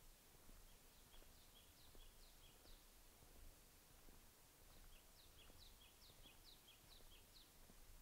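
A bird singing faintly: two quick runs of high, repeated two-note phrases, the first about a second in and the second about five seconds in. Beneath them is a faint low outdoor hush.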